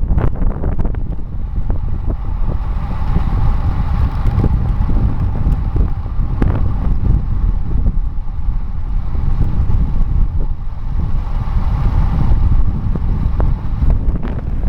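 Wind buffeting the microphone of a bicycle descending fast, at 25 to 35 mph, as a loud, steady rumble, with a steady hum above it and scattered short knocks.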